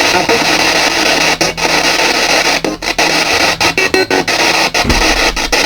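PSB7 spirit box sweeping through radio stations: loud static hiss chopped by quick, irregular gaps, with snatches of broadcast music.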